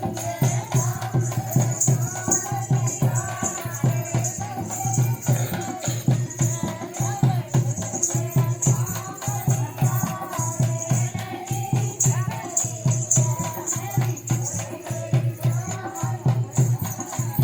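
Dehati folk dance-song music: a steady drum beat with jingling percussion and a wavering melody line over it.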